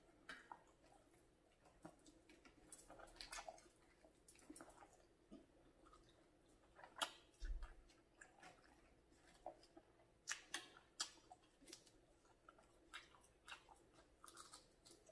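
Faint, close-miked chewing and mouth smacks while eating bacon and smoked sausage by hand, with scattered short clicks and smacks, the strongest about 7 seconds in and again around 10 to 11 seconds.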